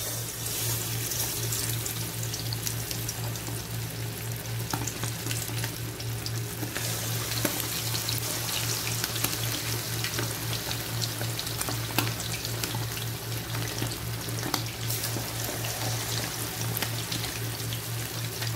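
Masala-coated quail pieces deep-frying in hot oil: a steady sizzle of bubbling oil with fine crackles, starting as the first piece goes in.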